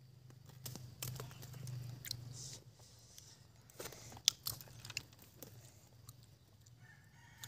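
People chewing and smacking while eating clams in soup and jackfruit. Scattered sharp clicks run through it, the loudest about four seconds in.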